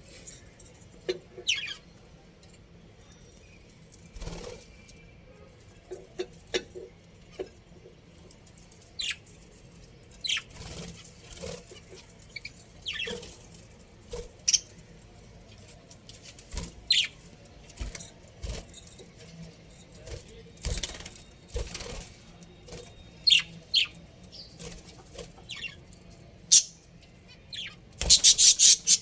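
Budgerigars chirping in short scattered calls, mixed with brief knocks and fluttering, and a louder, dense burst of chirping near the end.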